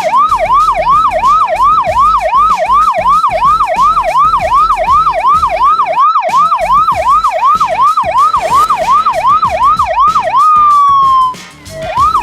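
Fire truck's electronic siren on a fast yelp, its pitch sweeping up again and again about three times a second. Near the end it changes to one slow falling tone that cuts off, then starts rising again.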